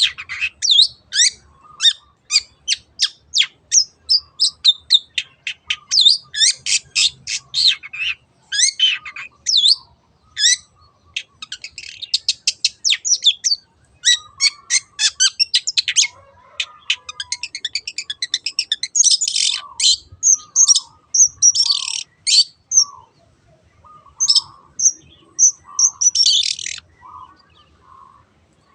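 Long-tailed shrike (cendet) singing: a fast, tumbling run of sharp sweeping chirps, giving way about halfway through to spaced, harsher scratchy calls.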